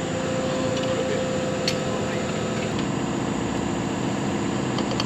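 Excavator's diesel engine running steadily. Its tone shifts lower about two-thirds of the way through, with a couple of faint clicks.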